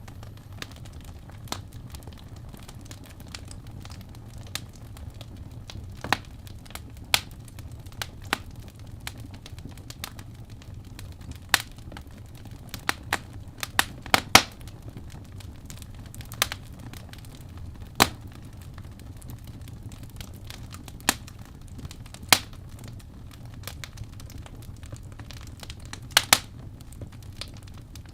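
Wood fire crackling in a fireplace: irregular sharp pops and snaps, a few loud ones, over a low steady rumble.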